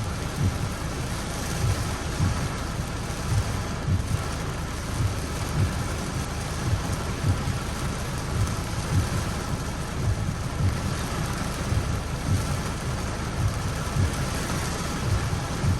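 Steady rain, with irregular low thuds about once or twice a second.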